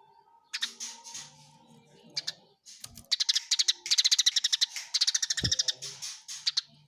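Eurasian tree sparrows chirping in a fight: a few scattered chirps, then about three seconds in a dense, rapid run of harsh chirps, roughly ten a second, lasting several seconds.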